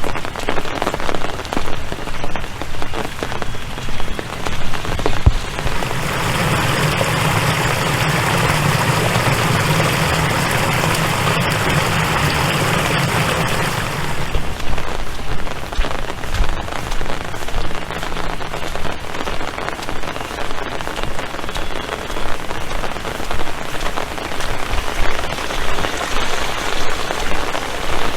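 Rain falling, a loud uneven patter of drops. From about six to fourteen seconds a steadier, fuller rush takes over, then the patter returns.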